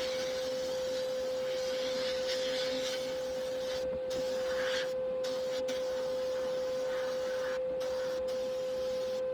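A machine running with a steady high hum under a hissing noise; the hiss cuts out briefly a few times while the hum carries on.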